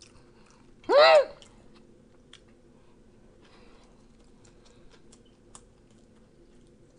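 A man's short hummed vocal sound, rising and falling, about a second in. Then faint mouth clicks of chewing a bite of a McDonald's Big Mac.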